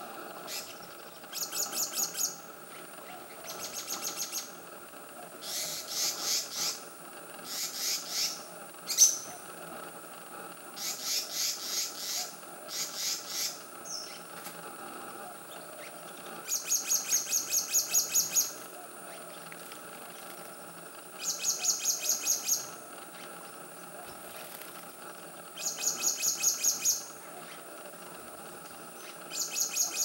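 Black-naped monarch calling: about ten bursts of rapid, high-pitched repeated notes, each lasting a second or two and coming every few seconds, with one single sharp note about nine seconds in. A steady faint hum runs underneath.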